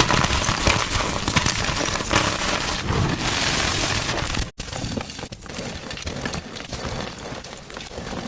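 Gym chalk being crushed: dense, crunchy crackling. It breaks off abruptly a little past halfway, then goes on quieter and sparser.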